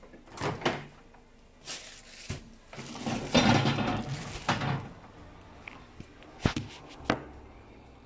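Kitchen handling noises: a few sharp knocks and clatters of drawers or cupboards being worked, with a louder stretch of rustling and scraping for about two seconds in the middle.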